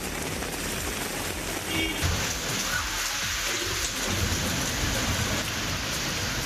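Heavy rain pouring down in a steady hiss that turns brighter about two seconds in, with low rumbles swelling around two and four seconds in.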